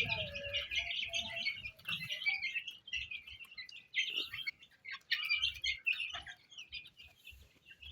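A brood of young chicks peeping, many short high peeps overlapping in a continuous stream.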